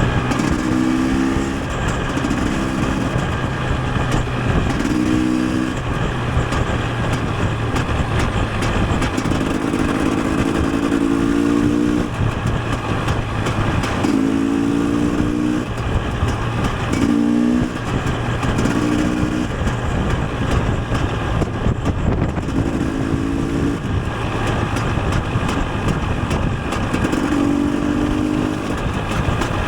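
KTM 250 EXC single-cylinder two-stroke engine under way on a supermoto, its revs climbing in short bursts again and again, about every two seconds, as the bike is ridden through the gears, with heavy wind noise over the microphone.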